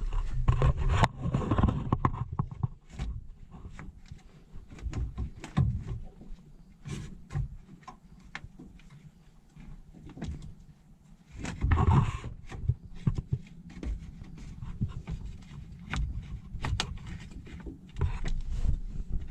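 Irregular clicks, knocks and scraping of parts being worked into place while fitting a replacement air-conditioner fan motor into a Subaru Sambar kei truck, with louder clusters of knocking in the first couple of seconds and again about twelve seconds in.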